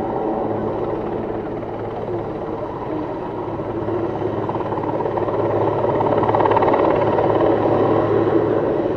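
Airbus H215 Super Puma twin-turbine helicopter in flight, its rotors and engines running steadily, growing louder about halfway through.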